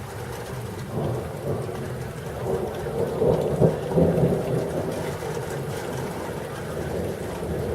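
Thunder rumbling over steady rain. The rumble builds about a second in, is loudest around the middle, then fades back under the rain.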